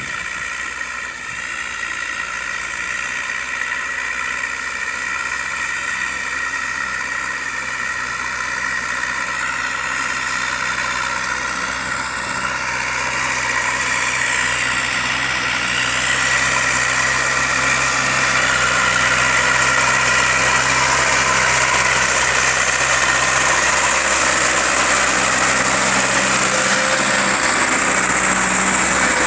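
IMT tractor diesel engine running steadily, growing louder about halfway through and holding there.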